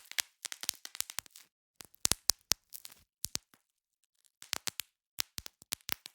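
Bubble wrap being popped: quick clusters of sharp snapping pops, several in fast succession, then short pauses, with a gap of about a second after the middle.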